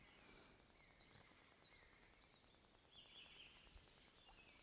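Faint birdsong: many short, repeated chirps, a little louder about three seconds in, over quiet outdoor background.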